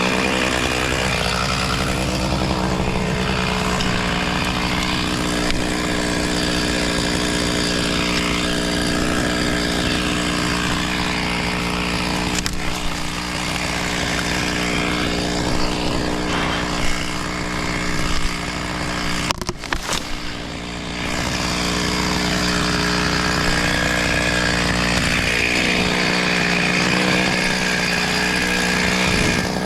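Chainsaw running at steady high speed, cutting a tree, with a brief dip in engine sound about two-thirds of the way through before it carries on.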